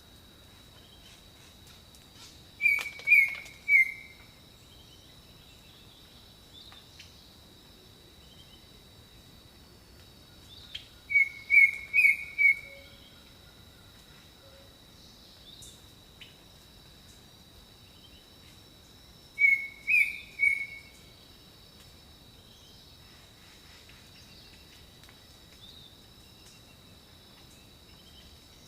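Jungle birdsong: a bird gives three bursts of three or four short, clear notes, spaced about eight seconds apart, over a steady high-pitched hum and faint scattered chirps.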